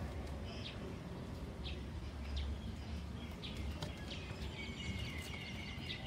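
Birds chirping outdoors in short scattered calls, with a longer run of repeated notes near the end, over a steady low background rumble.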